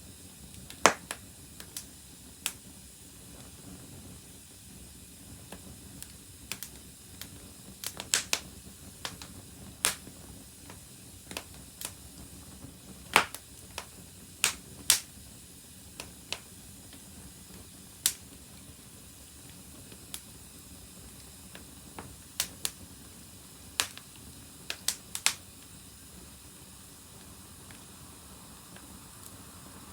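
Wood fire crackling: irregular sharp pops and snaps, a few loud ones among many small, over a faint steady hiss.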